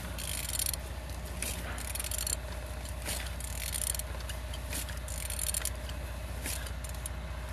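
Toyota 1ND-TV diesel engine, out of the car, being turned over by hand: irregular short metallic scrapes and clicks every second or so as the crankshaft turns freely, a sign the engine is not seized.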